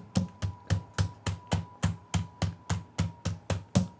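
Chicken breasts being pounded thin inside a plastic bag on a counter: fast, even knocks at about three or four blows a second.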